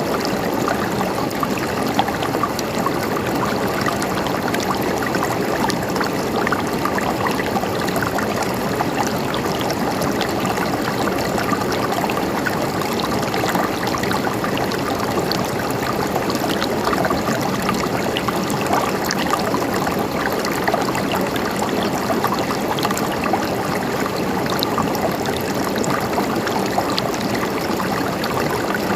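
River water flowing steadily over rocks, a constant rush with fine splashing and gurgling.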